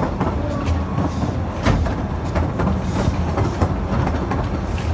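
Efteling park train running along its narrow-gauge track, a steady low rumble with irregular clicking of the wheels over the rails.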